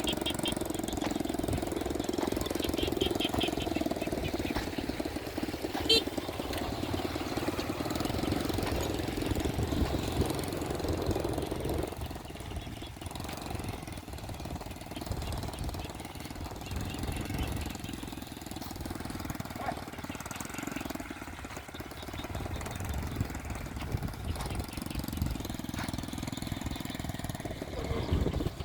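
Small motorbike engine running at low speed with a rapid knocking beat, louder for about the first twelve seconds, then quieter, and picking up again near the end. A single sharp click about six seconds in.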